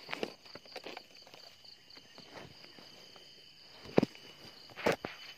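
Footsteps crunching through forest undergrowth, a few heavier steps standing out about four and five seconds in. A steady, shrill chorus of insects runs underneath, one of them pulsing.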